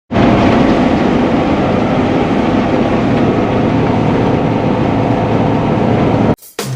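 Heavy machinery, likely a combine harvester, running loudly and steadily, cutting off abruptly near the end.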